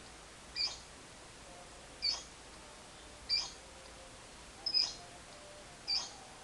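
Lovebird giving short, sharp high-pitched chirps, five in all, spaced a little over a second apart.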